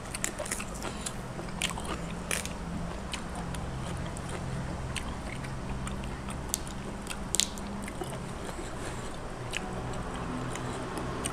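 Person chewing crisp raw bok choy close to the microphone, with scattered sharp crunches and snaps over a steady low hum.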